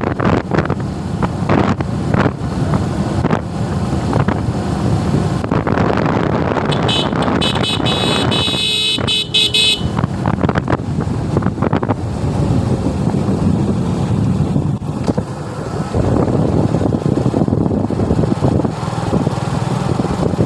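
Suzuki Gixxer motorcycle riding on the road, its engine and road noise mixed with wind on the microphone. A vehicle horn sounds for about three seconds near the middle.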